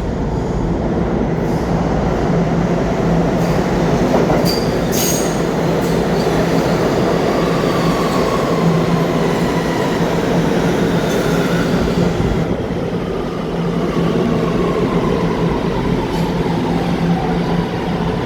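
New York City subway train running through the station: a steady loud rumble with a low hum and faint wheel squeal, with a few sharp clicks about four to five seconds in.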